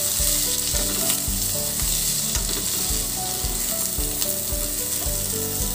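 Cauliflower florets and potato wedges sizzling in hot oil in a kadai, a steady hiss, while a wooden spatula stirs and turns them.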